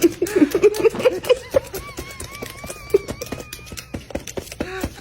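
A parrot making rapid clicking noises mixed with short chirps, with a thin wavering whistle through the middle.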